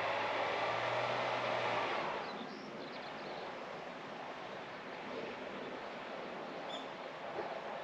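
Outdoor garden ambience: a steady rushing noise with a low hum, louder for the first two seconds and then dropping, with a few faint high chirps.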